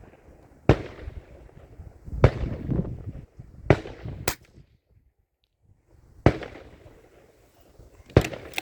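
Six sharp .22 LR rifle shots, spaced about one to two seconds apart, with a low rumble of wind between them.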